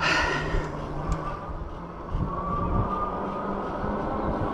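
E-bike ride: wind and road noise rush steadily over the microphone, with a brief louder gust at the start. About two seconds in, a thin whine from the hub motor rises slightly.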